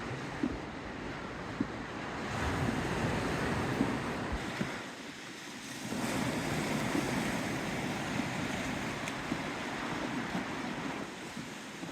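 Outdoor wind gusting over the microphone together with the wash of the sea at the bay's edge. The wind eases for about a second roughly five seconds in, then picks up again.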